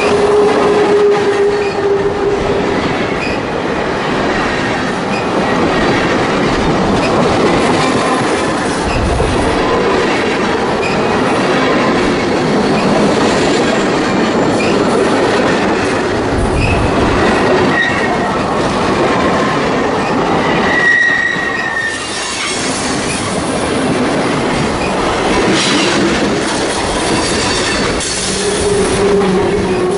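Freight train cars rolling past at close range, their steel wheels clattering over the rail joints, with brief high-pitched wheel squeals a couple of times in the middle.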